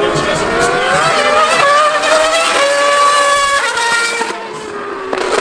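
High-revving racing engine accelerating hard, its pitch climbing and dropping back at upshifts about one and a half seconds and three and a half seconds in, then falling and quieter near the end as the revs come down.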